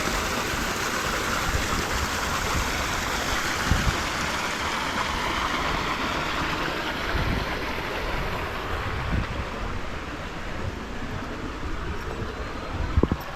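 Shallow creek water babbling and rushing over rocks, a steady hiss, with a few low thumps.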